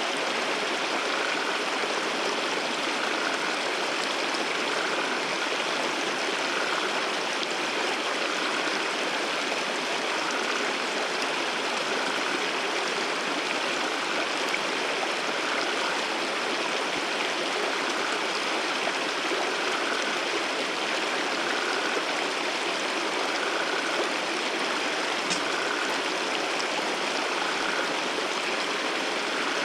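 Steady rushing of running water from a wadi waterfall and stream, even and unbroken throughout.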